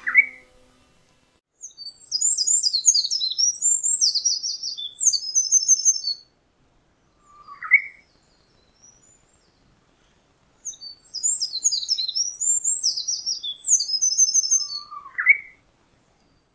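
A songbird singing two long, rapid, high-pitched warbling phrases of about four seconds each, several seconds apart. A short lower note that slides upward comes three times: just before the first phrase, between the two, and right after the second.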